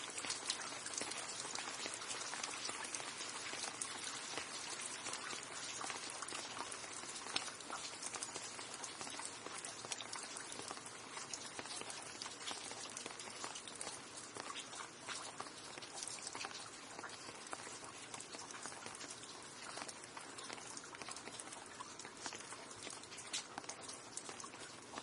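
Steady rain falling, a dense patter of many small drop impacts with no let-up, easing off slightly towards the end.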